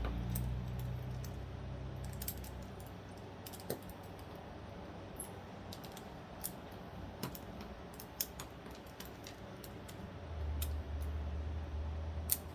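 Small metal folding-knife parts (blade, washers, pivot pin) clicking and tapping as they are handled and fitted together, a scatter of separate light clicks. A low rumble sits under the clicks for about the first two seconds and again near the end.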